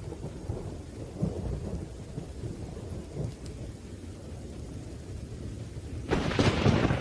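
Thunderstorm: low, rolling thunder rumbling under steady rain, with a sudden louder thunderclap near the end.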